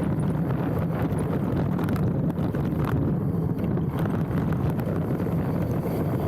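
Specialized Stumpjumper mountain bike riding down a dirt trail: a steady rumble of tyres on the ground with scattered knocks and rattles from the bike, and wind buffeting the handlebar-mounted camera's microphone.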